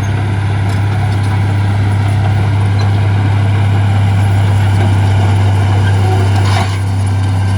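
Heavy diesel engine of earthmoving equipment running steadily with a loud, deep drone, easing slightly just before the end.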